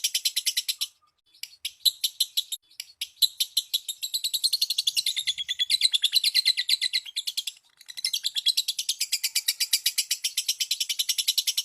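Lovebird ngekek song, a long fast chatter of high, evenly repeated chirps. It breaks off about a second in, turns into looser, uneven chirping, and settles back into the steady rapid chatter near the end.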